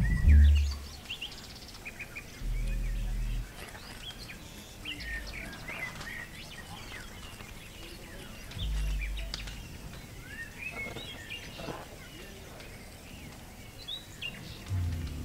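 Many birds chirping, short overlapping calls and quick sweeps. Brief low rumbles break in four times, each lasting about a second, the loudest right at the start.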